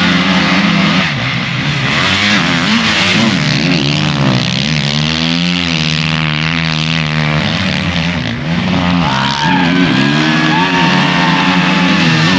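Several racing motorcycle engines revving hard, their pitch rising and falling repeatedly as the riders work the throttles through the beach race.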